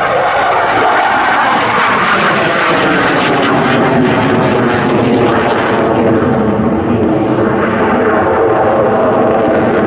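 Dassault Super Étendard jets' single Atar turbojet engines heard in a flypast: loud, continuous jet noise, with a falling pitch in the first couple of seconds as a jet passes.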